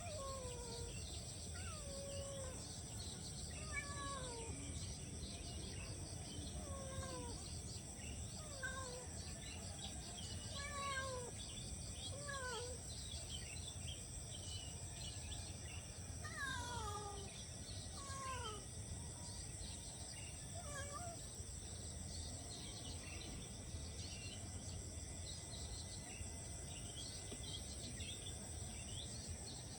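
A cat meowing over and over, short falling meows about one a second, thinning out after the middle, against a steady high insect chorus.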